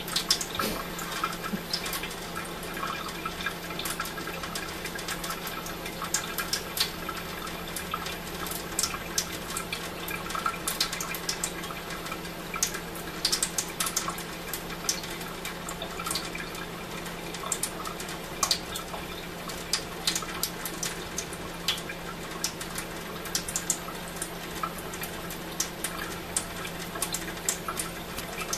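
Faucet left running in a thin stream, water trickling and pattering with many small irregular drips and splashes. It is left running to keep the well-water pipes from freezing.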